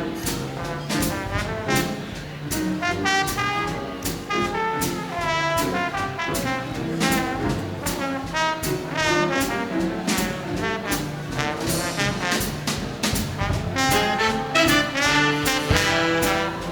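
Swing big band playing a medium-tempo tune: a slide trombone solos over brass backing figures, with a steady swing beat from the drums and rhythm section.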